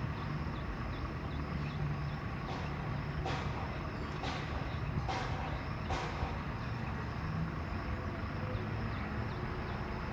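Steady low engine-like rumble of workshop or traffic machinery, with several short, sharp noises between about two and six seconds in.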